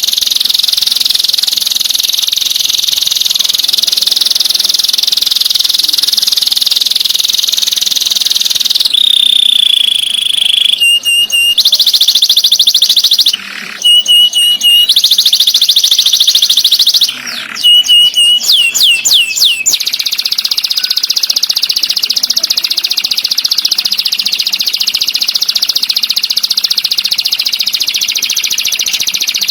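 Songbird song: a dense, very fast high trill. About a third of the way in it breaks into a held whistle, then repeated clear notes and a run of quick downward-sweeping calls, before the fast trill returns.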